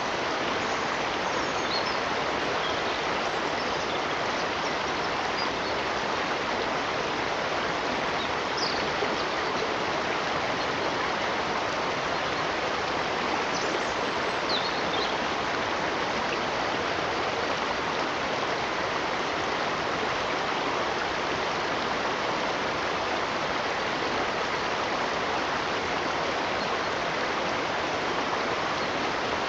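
Flowing stream, a steady, even rush of water, with a few faint, brief high chirps over it.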